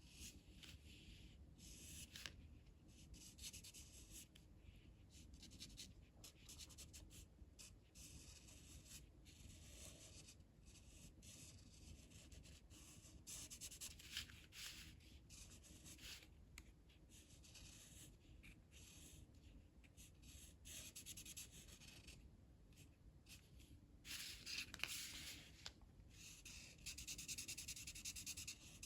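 Colouring strokes of a drawing tool on paper: faint, quick scratching in uneven runs with short pauses, louder near the end.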